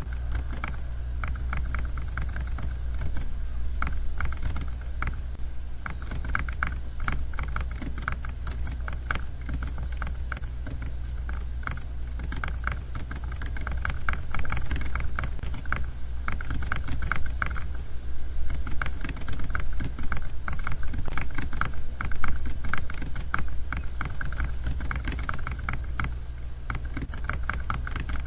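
Computer keyboard typing: a quick, uneven run of key clicks and taps, over a steady low hum.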